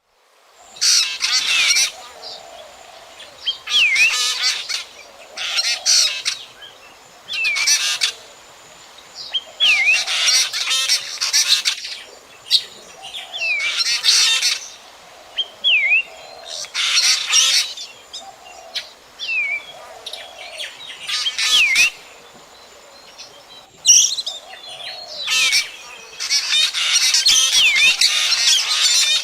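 Black drongo calling: harsh, chattering phrases repeated every two to three seconds, each with a quick down-and-up whistled note, and a longer run of calls near the end.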